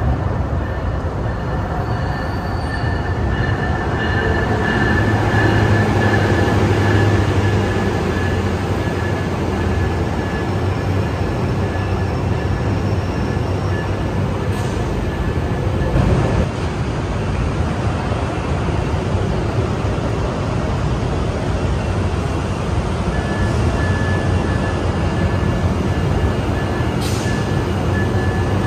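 NJ Transit train running close by: a steady loud rumble with a thin high whine that fades out about halfway through and returns near the end, and a single knock about 16 seconds in.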